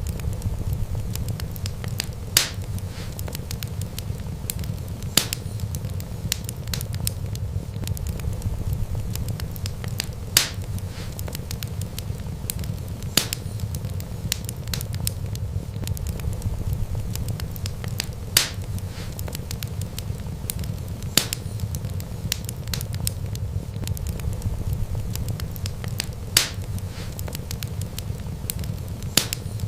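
Wood fire crackling: a steady low rumble of burning flames with sharp pops every two to five seconds.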